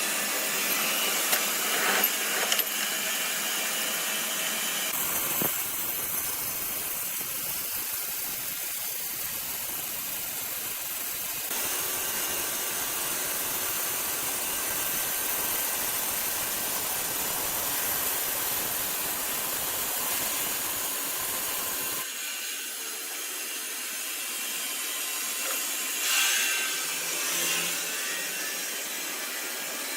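Sawmill saw cutting wood, a steady noisy whirr that changes character abruptly a few times.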